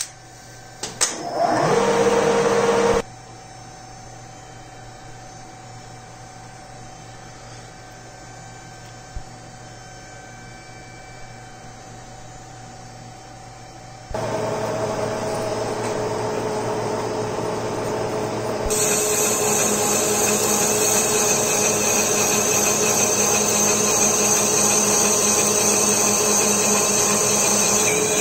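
Small electric motor on a homemade lathe setup: a few clicks, then a brief run-up that cuts off after about three seconds. About halfway through it starts again and runs steadily, and a few seconds later a high whine joins it.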